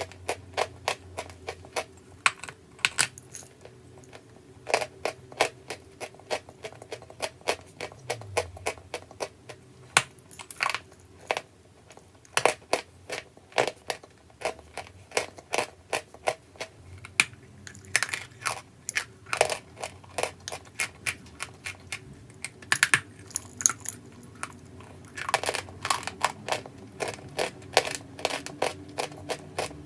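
A dry, brittle chalky material crunching and cracking: a long irregular run of sharp crunches, often several a second, broken by a few short pauses.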